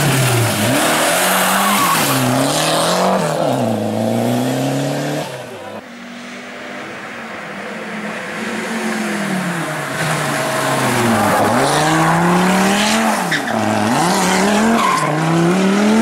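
Rally car engines at full throttle on a stage, the engine pitch climbing and dropping sharply with each gear change. About five seconds in, the sound cuts to another car, fainter at first and growing louder as it comes closer.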